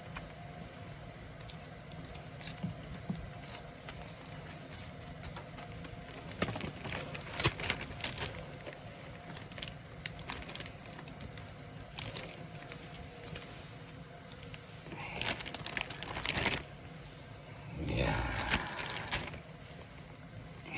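Wood fire crackling, with scattered sharp pops and clicks, and a few louder rustling knocks near the end.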